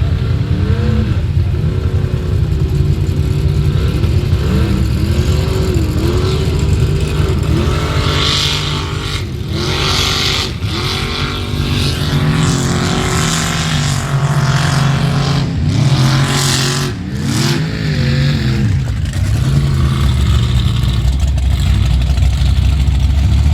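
Mud bog vehicle's engine revving hard over and over, its pitch climbing and dropping, over a deep steady rumble. Bursts of rushing noise come and go in the middle.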